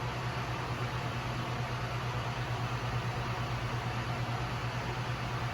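Steady cockpit noise of a jet airliner-type aircraft in cruise flight: an even rush of airflow with a low steady hum under it.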